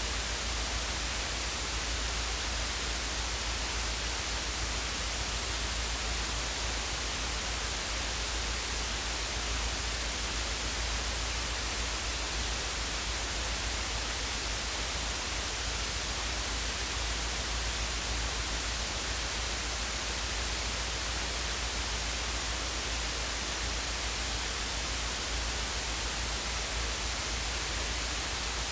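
Steady, unchanging static-like hiss over a deep low rumble.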